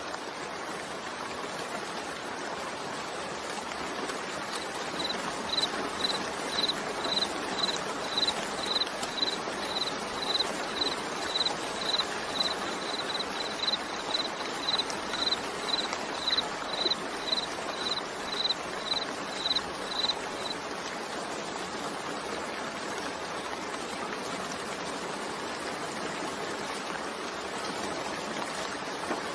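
Steady rain falling, an even hiss with no pauses. From about five seconds in until about twenty seconds, a run of short high chirps repeats about twice a second over the rain.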